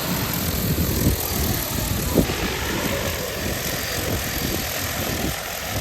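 Multirotor agricultural spray drone (DJI Agras) flying, its rotors making a steady hum, with wind gusting on the microphone.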